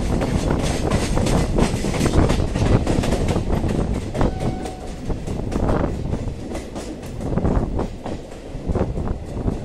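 Train running along the track, heard from aboard: a steady low rumble with wheels clattering over the rail joints in quick, uneven knocks.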